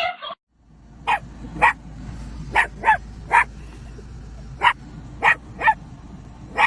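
A dog barking in short single barks, about nine of them at uneven intervals, over a low steady hum.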